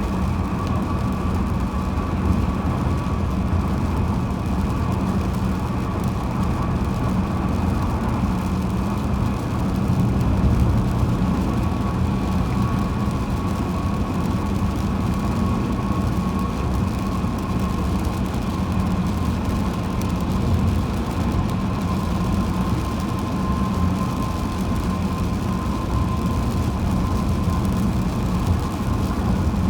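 Car driving at highway speed: steady road and engine rumble, with a thin, steady whine that sinks slightly in pitch.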